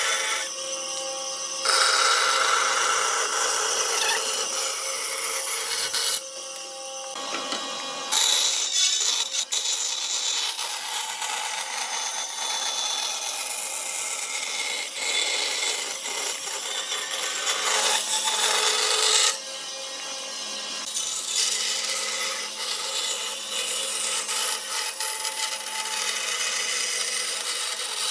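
Tools working wood: rasping, sawing and rubbing noise in several stretches that change abruptly about 2, 6, 8 and 19 seconds in.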